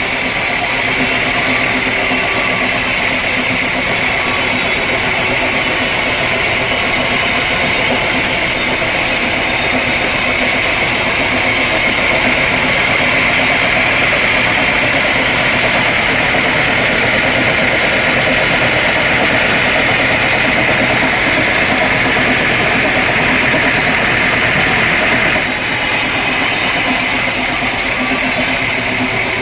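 Sawmill machinery running steadily, an engine-driven saw droning with a strong high whine.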